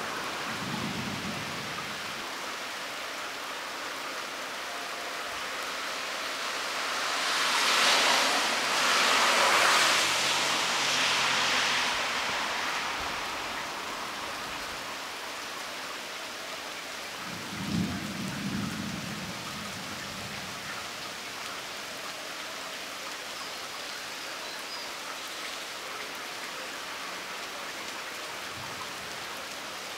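Steady rain falling, with tyres hissing past on a wet road in a swell that rises and fades about eight to twelve seconds in, and a short rumble of thunder about eighteen seconds in.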